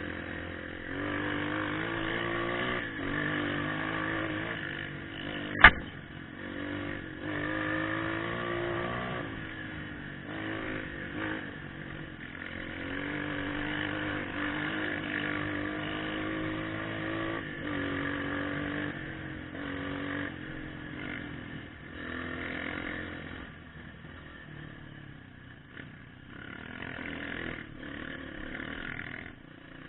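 Trail motorcycle engine running under a rider, its pitch rising and falling as the throttle opens and closes. A single sharp knock about six seconds in is the loudest sound, and the engine gets quieter near the end.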